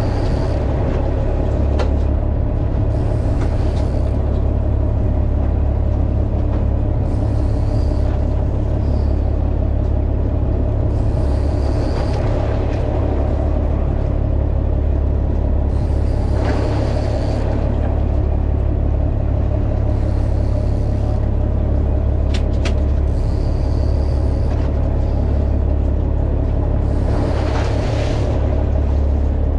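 A fishing boat's engine runs steadily with a loud low rumble. A hissing rush rises and fades about every four seconds.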